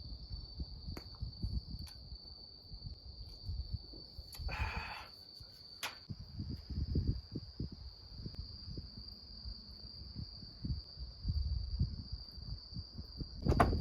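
Insects, crickets by the sound, trilling in one steady unbroken high tone, with irregular low rustling and knocks underneath.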